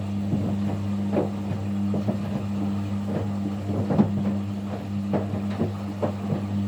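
Kunft washing machine running a wash cycle: a steady low motor hum with irregular knocks and sloshes from the laundry and water turning in the drum.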